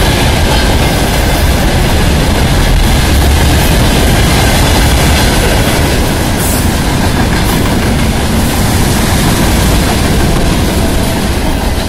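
Freight train wagons, open gondola cars and then tank cars, rolling past close by: a loud, steady rumble of steel wheels on the rails that eases slightly near the end.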